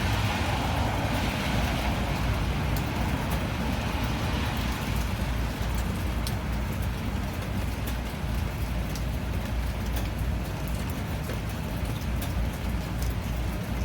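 Steady rain falling, with scattered sharp drop ticks over a deep low rumble. A swell of rushing noise fades away over the first few seconds.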